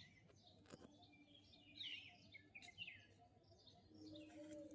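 Faint birds chirping: several short, scattered calls. A faint low steady tone comes in near the end.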